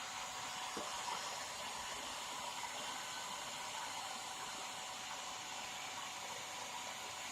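Hair dryer blowing steadily, an even rushing hiss with a faint steady whine, used as a heat gun to soften the sealant holding a motorcycle headlamp lens.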